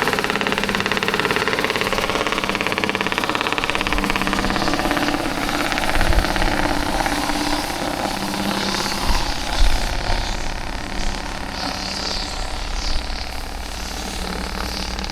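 Heavy truck's diesel engine brake (Jake brake) firing in a rapid rattling stutter while it holds the truck back downhill, strongest for about the first five seconds. It then settles into a rougher engine and road sound with a few low thumps.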